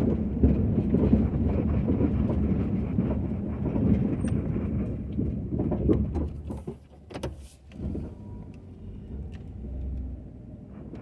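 Ford F-250 pickup's engine running with a steady low hum, louder for the first half; a few sharp knocks come about six to seven seconds in, after which the engine runs quieter.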